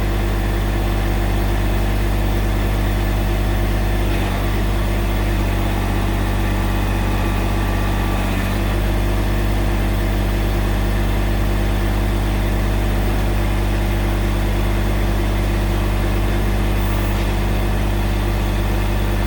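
Massey Ferguson GC1710 subcompact tractor's three-cylinder diesel engine running steadily near idle while the backhoe is worked.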